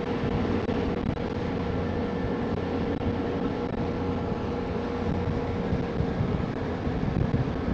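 Ferry engines running steadily under way, a low hum with a faint steady whine over rushing noise of wind and water.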